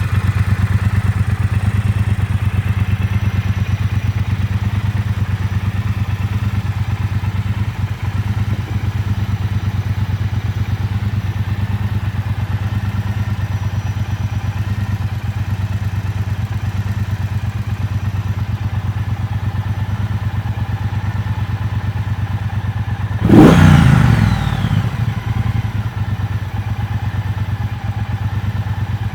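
Triumph Bobber Black's 1200 cc parallel-twin engine idling steadily. About three-quarters of the way through, a single quick throttle blip briefly raises the revs, then the note falls back to idle.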